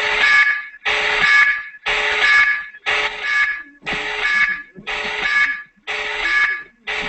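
Electronic alarm-like beeping in repeated bursts, about one a second, each burst the same set of steady tones over a hiss.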